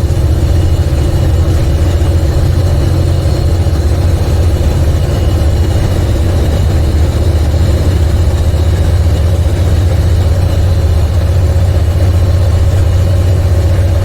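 Semi truck's diesel engine heard from inside the cab, a loud, steady low drone under load while climbing a hill.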